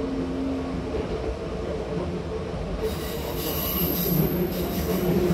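Hankyu Takarazuka Line train running, heard from inside the car: a steady rumble of wheels on the rails, joined about three seconds in by a high-pitched wheel squeal that holds to the end.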